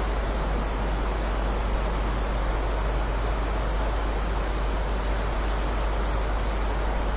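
Steady heavy rain, an even, unbroken wash of noise with a deep low rumble underneath.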